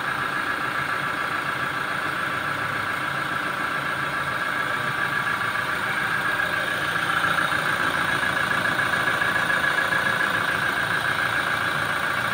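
Toyota Hilux engine idling steadily under the open hood, freshly run after an oil change; it gets a little louder for a few seconds from about seven seconds in.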